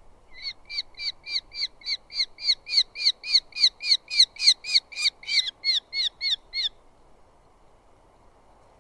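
Eurasian hobby calling: a rapid run of about twenty sharp, down-slurred notes, about four a second, that grows louder and then fades, stopping well before the end.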